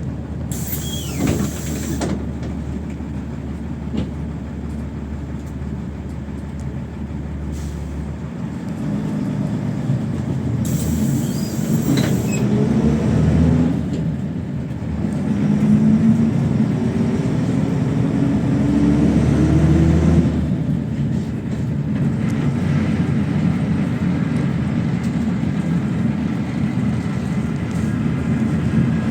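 PAZ-32054 bus engine idling, two sharp hisses of compressed air, then the bus pulling away, the engine note rising through the gears with a break in between before settling into steady running.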